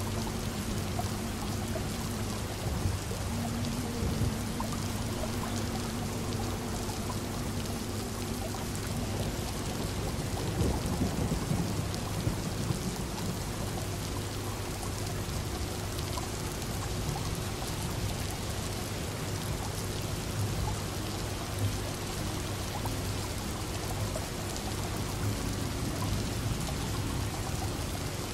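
Steady rain, with a low roll of distant thunder about ten seconds in. A steady low hum runs underneath.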